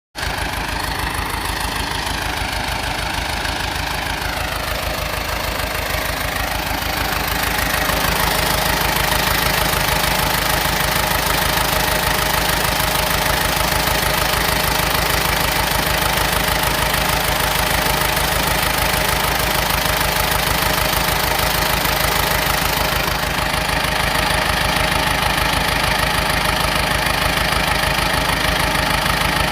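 A bulldozer's diesel engine running steadily, with a wavering pitch at first, then louder and fuller from about eight seconds in.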